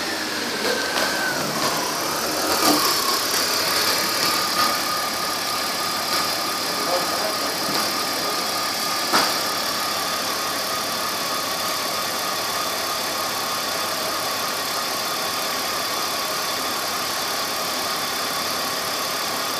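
2002 BMW 325xi's 2.5-litre inline-six idling steadily with the automatic transmission in drive: an even hiss with a thin whine that drops a little in pitch in the first couple of seconds, then holds. A single sharp click about nine seconds in.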